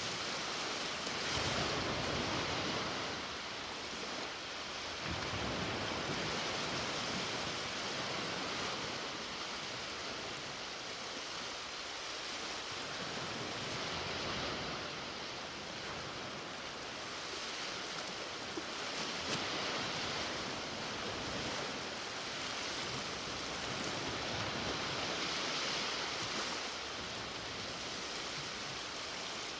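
Ocean waves breaking and washing onto a beach, a steady surf wash that swells and eases every few seconds.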